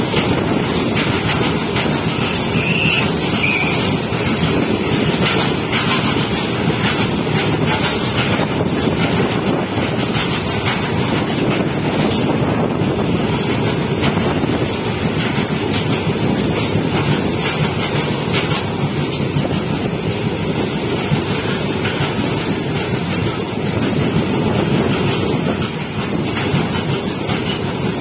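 BOXN open freight wagons rolling past at speed: a loud, steady rush of steel wheels on rail, with many small clicks from the wheels passing over the track.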